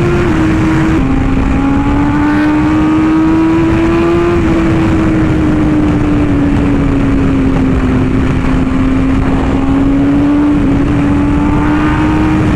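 BMW S1000RR inline-four motorcycle engine running at cruising speed, its note drifting gently up and down with the throttle, with a couple of small dips near the start, over heavy wind rush on the rider's microphone.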